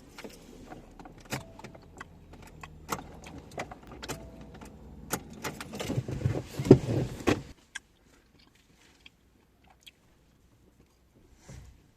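Close-miked mukbang eating sounds: a run of sharp crunches and clicks that thickens into a loud, dense stretch about six seconds in, stops suddenly near seven and a half seconds, and leaves only a few scattered clicks.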